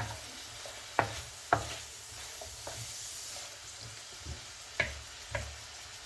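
Vegetables sizzling in oil in a pan over moderate heat, with a steady hiss. A utensil knocks against the pan about seven times as they are stirred.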